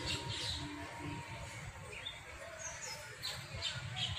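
Birds chirping: short high calls scattered through, with a quick run of chirps near the end, over a low rumbling noise.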